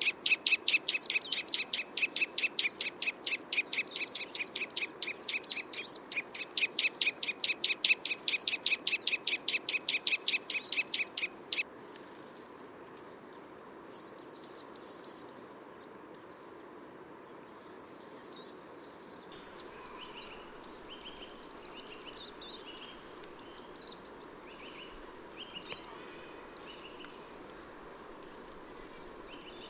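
Small garden songbirds calling. A fast, even trill of repeated high notes runs for about the first twelve seconds, then after a short pause come many quick scattered chirps and a few short clear whistles.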